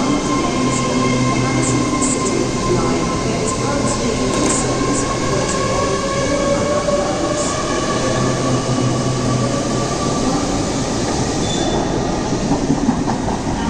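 A train running past with a steady whine, its wheels squealing on the rails.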